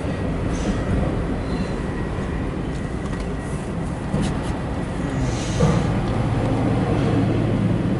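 Empty autorack freight train passing close by: a steady rumble and rattle of wheels on rail with scattered clanks, and a low steady engine drone coming in about five and a half seconds in.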